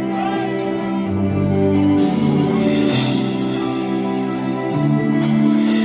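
Live rock band playing an instrumental passage before the vocals: held chords over a bass line, the notes changing about once a second.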